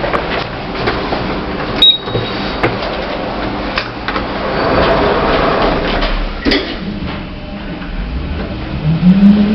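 Busy public-walkway ambience with scattered clicks and knocks. Near the end an electric motor whine rises in pitch and then holds steady.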